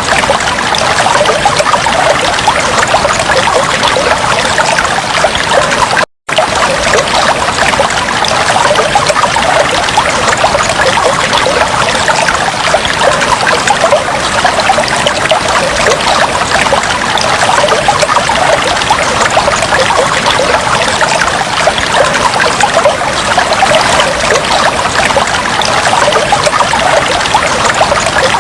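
Fish tank water trickling steadily in a dense, even splashing, with one split-second dropout about six seconds in.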